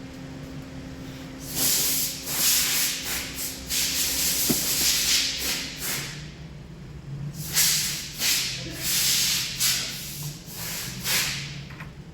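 Repeated bursts of hissing spray, some short and some a second or more long, over a low steady hum.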